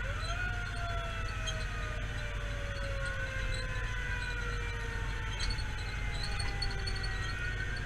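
Fire engine siren wailing, its pitch sweeping up and then sliding slowly down over several seconds, over the steady low rumble of the truck's engine and road noise.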